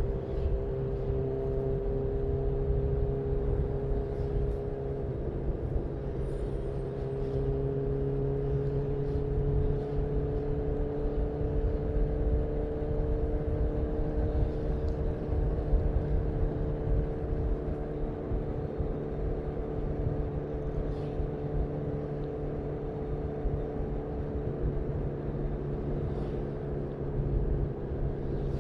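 2018 Honda CB1000R inline-four with a full-system Black Widow exhaust, cruising at a steady pace under a heavy low rumble, its engine note climbing gently over the first half and easing back down.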